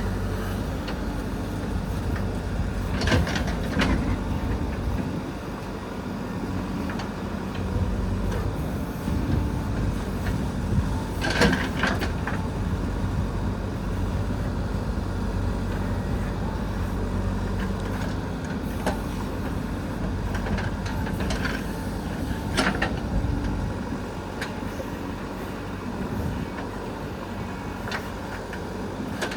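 JCB 3DX backhoe loader's diesel engine running steadily at work, with a few sharp knocks about three, eleven and twenty-two seconds in.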